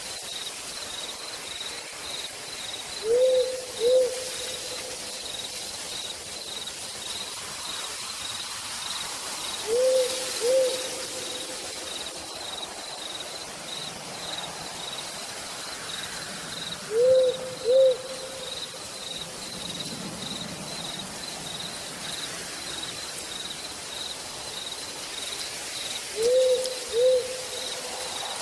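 An owl hooting a quick pair of notes four times, about every seven seconds, over steady cricket chirping and a constant hiss of rain.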